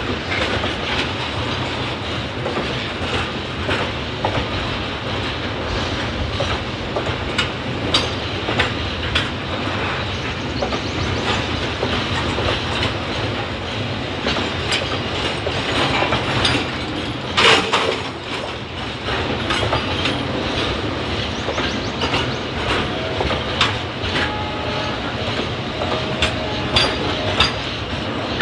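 Container freight wagons rolling past, their steel wheels clicking and clattering over rail joints, with one loud clank about two-thirds of the way through.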